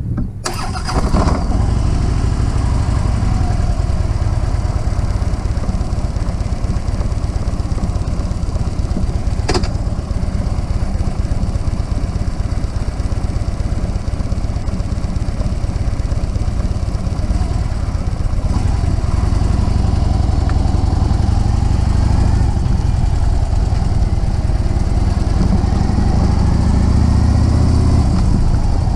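Harley-Davidson Road King's V-twin engine running at low speed as the bike rolls off. The rumble comes in suddenly about a second in, and the revs rise and fall in the second half, getting louder near the end.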